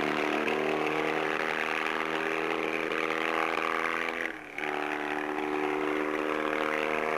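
Triton motorcycle engine running at steady revs with a misfire, its note cutting out briefly about four and a half seconds in.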